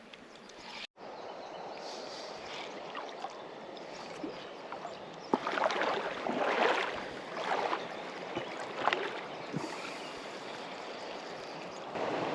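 Creek water running steadily, with louder splashing and sloshing of water from about five seconds in. The sound drops out for a moment about a second in.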